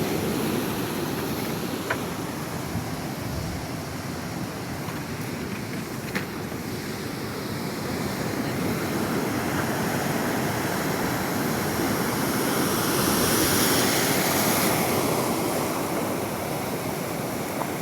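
Sea surf washing below a pier, a steady rush that swells louder a little past the middle, with some wind on the microphone and two faint clicks in the first few seconds.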